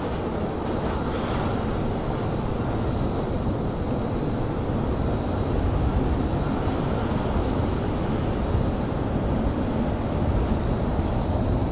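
Railyard ambience: a steady low rumble with a thin, faint high whine running through it.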